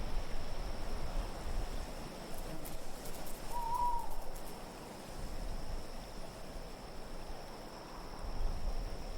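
Steady wind noise, with a single short owl hoot about three and a half seconds in.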